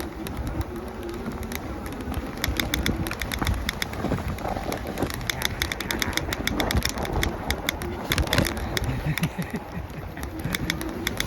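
Irregular rapid clicking over a steady low rumble.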